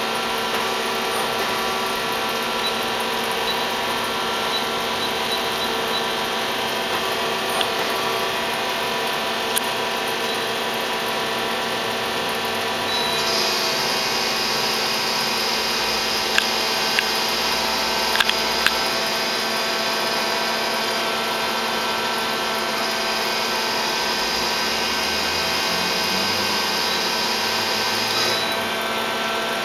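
Okuma LU-15 CNC turning center running, a steady machine whine made of many tones. A higher whine joins about a third of the way in and drops out near the end, and a few sharp clicks sound around the middle.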